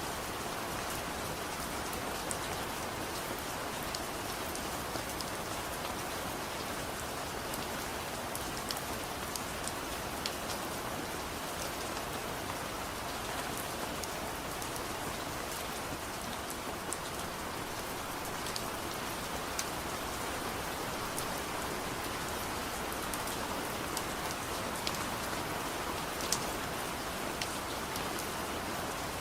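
Steady soft rain falling, an even hiss with many small, sharp ticks scattered through it.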